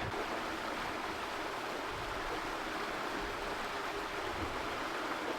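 Steady rushing of water streaming past the hull of an IMOCA 60 racing yacht under sail, an even hiss with little low rumble.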